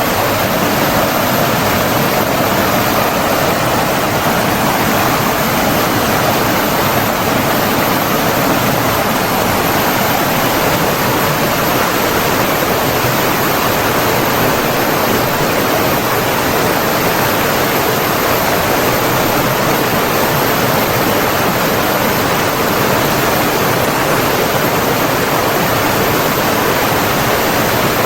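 Running water of a stream, an even, unbroken rush.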